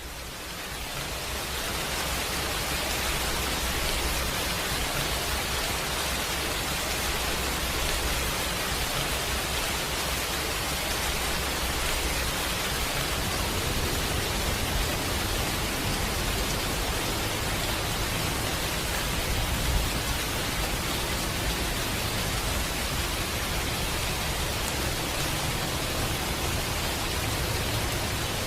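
Steady, dense rain falling outside a window, an even hiss with a low rumble underneath, fading in over the first couple of seconds.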